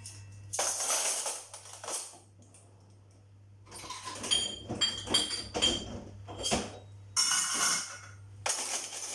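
Washing up by hand: dishes and cutlery clinking and clattering in the sink, with bursts of hissing running water, over a steady low hum.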